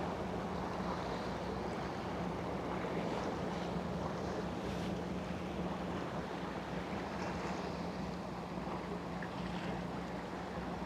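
A passing boat's engine running with a steady low hum, over a constant wash of wind noise on the microphone.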